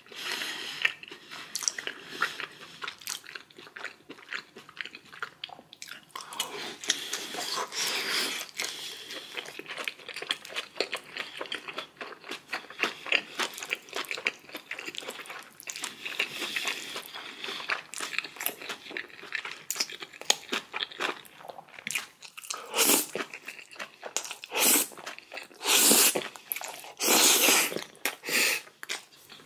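Close-miked chewing and crunching of food, with wet mouth clicks throughout. Near the end come several louder bursts of rushing noise, each about a second long.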